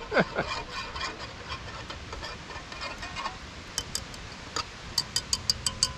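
A metal spoon clinking and scraping against a cooking pot while stirring a chili mixture. There are scattered knocks, then a quick run of about six sharp taps near the end.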